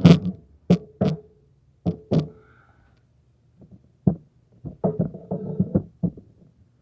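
A series of sharp knocks and clunks at irregular intervals, a couple of them followed by a brief ringing tone, then a quicker cluster of softer knocks and clatter near the end.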